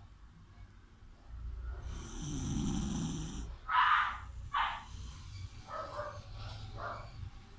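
Sleeping dog snoring: one long rattling snore about a second and a half in, then two short, louder breath sounds and a few softer ones.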